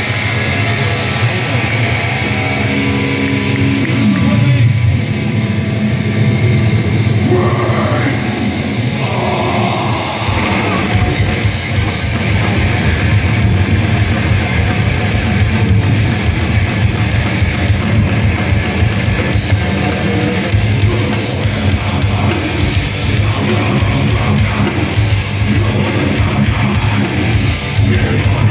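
Heavy metal band playing live through a loud PA, distorted guitars with a pitch slide a few seconds in, then the full band with drums and bass kicks in hard about ten seconds in.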